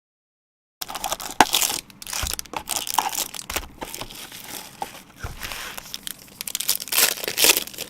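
Trading-card packaging being torn open and handled: crinkling, rustling and ripping of wrappers, with sharp crackles. It starts after about a second of dead silence and is loudest near the end.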